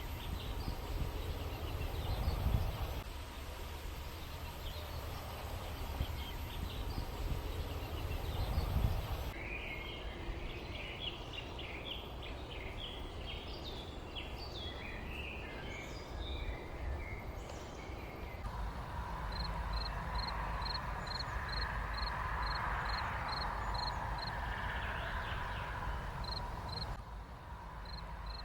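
Outdoor rural ambience of birds chirping: a busy stretch of many short chirps, then a steady series of short high pips, about one and a half a second. There is low wind rumble on the microphone in the first part, and the background changes abruptly several times.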